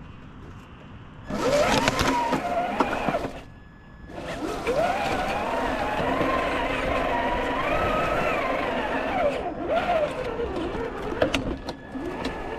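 Traxxas TRX-4 1/10-scale RC crawler's electric motor and geared drivetrain whining in two throttle bursts, the pitch rising and falling with speed, a short one and then a longer one, with a few sharp clicks.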